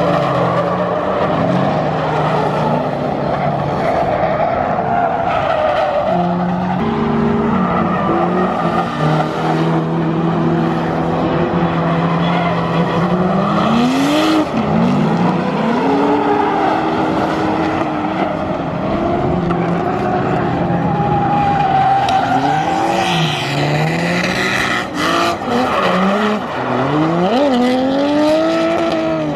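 A train of several drift cars sliding in tandem, engines held at high revs over tyre squeal. From about halfway on, several engines rev up and down over one another as the cars transition.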